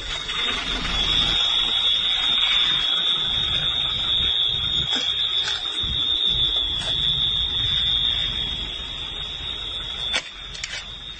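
A steady high-pitched alarm tone over a loud, noisy low rumble, easing near the end, with a sharp knock about ten seconds in.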